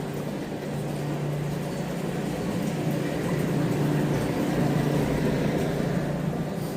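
Steady low mechanical hum with an even background noise.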